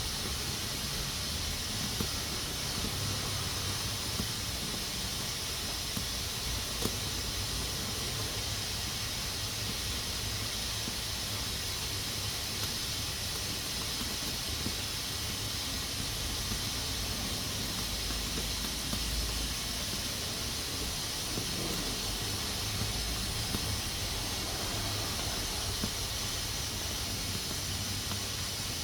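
Pressure cooker letting off steam through its valve: a steady, unbroken hiss, with a few faint clicks.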